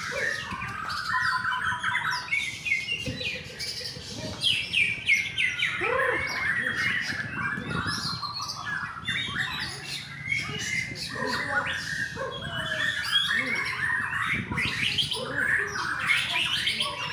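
Shamas (murai batu) singing: a dense run of fast chirps, trills and whistles from several birds at once, overlapping without a break.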